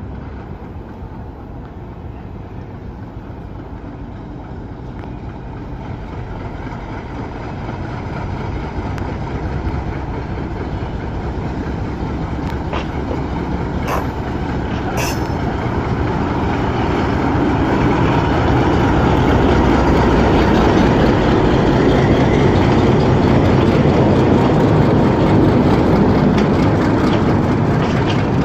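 Diesel-hauled passenger train pulling out of a station, its running noise growing steadily louder as it gathers speed and comes closer. A few sharp metallic clanks come about halfway through.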